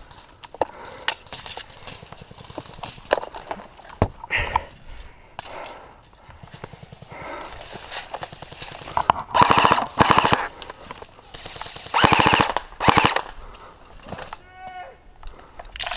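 Airsoft guns firing full-auto bursts, a rapid rattle of shots: scattered short bursts and single shots, then two longer bursts about two-thirds of the way in.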